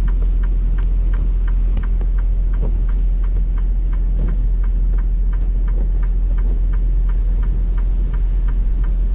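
Semi-truck diesel engine idling with a steady low rumble heard from the cab, while the turn-signal indicator clicks evenly about three times a second.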